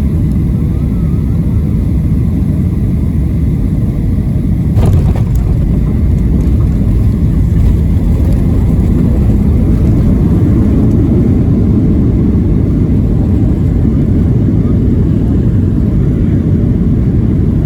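Boeing 737-700 cabin noise during landing: a loud, steady low rumble of the airframe and engines, with a sharp thump about five seconds in, after which the rumble runs slightly louder.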